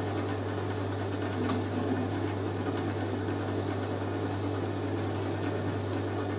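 Hoover A3060 Electronic 1100 washing machine running through its wash cycle: a steady hum with a light click about a second and a half in.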